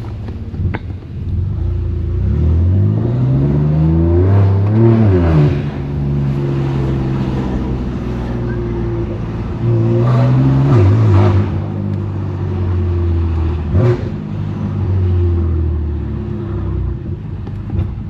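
BMW S55 twin-turbo inline-six with a straight-piped exhaust (single mid pipe), raspy, pulling hard twice with the pitch climbing, each pull ending in a drop in pitch as it shifts. A sharp crack comes about fourteen seconds in, and then the engine settles into a steadier cruise.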